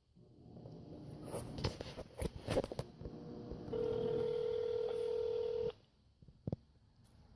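Telephone ringback tone over a phone's speaker: one steady two-second ring starting a little after halfway, the call going unanswered. Before it come a few clicks and rustles, and a single click near the end.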